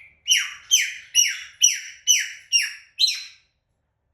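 African grey parrot squawking seven times in quick succession, about two calls a second, each a harsh call that falls in pitch.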